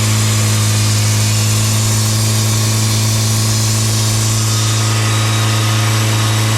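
Sawmill's engine running at a steady speed, an even, unchanging hum.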